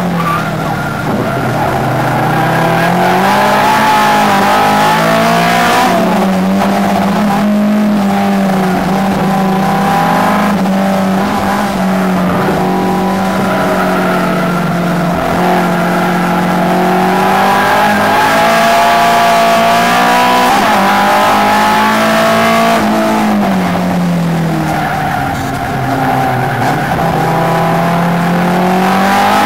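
Datsun Sunny race car's Nissan L18 four-cylinder engine heard from inside the cabin, held at high revs for long stretches. Its pitch drops and climbs back a few times as the driver lifts and shifts, most clearly near the end.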